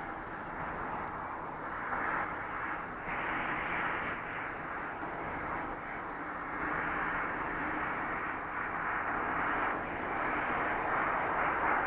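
Jet noise from a landing Airbus A330-200's two General Electric CF6-80E1 turbofans: a steady rush that swells slightly in the second half.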